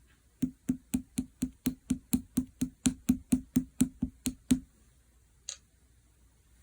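Rhythmic knocking, about four even knocks a second for some four seconds, each with a short low ring, then a single sharper click about a second later.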